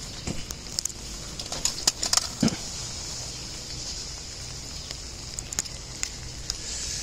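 Rain pattering on a clear plastic umbrella overhead: a steady rain hiss with scattered sharp drop taps, and a cluster of louder knocks about two seconds in.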